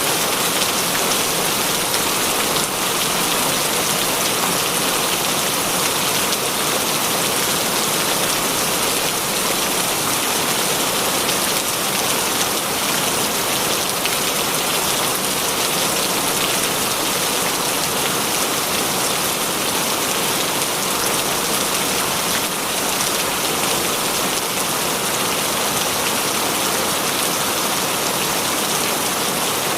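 Steady heavy rain falling, a dense even hiss of drops pattering on surfaces.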